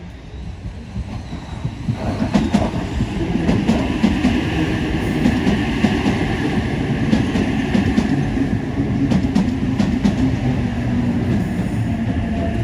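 Train running on the rails, its wheels clicking over the rail joints; the noise swells over the first two seconds and then holds steady.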